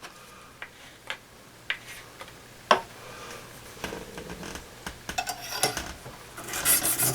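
Scattered light clicks and taps of a Lansky sharpening kit being handled, then, near the end, a fine oiled hone starts scraping rapidly back and forth along the saw blade's edge.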